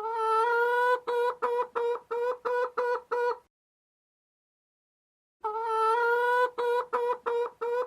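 Mother hen clucking call: one long note of about a second followed by about six short clucks, stopping for about two seconds and then repeated identically.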